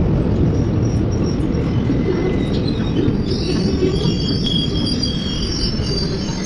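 Indian Railways passenger coaches rolling past along a station platform, with a loud, steady rumble and clatter of wheels on rail. From about halfway through, a high metallic squealing rises over the rumble.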